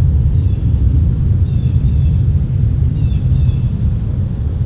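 Steady low outdoor rumble at a riverbank, with a constant high-pitched whine over it and a few faint chirps about halfway through.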